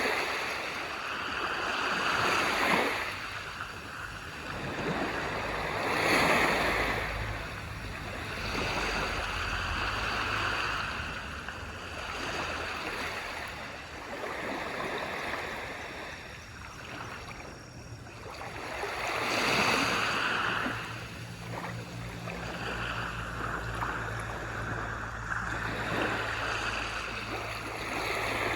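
Waves breaking and washing up on a beach, each surge swelling and fading every few seconds, with a low steady rumble underneath.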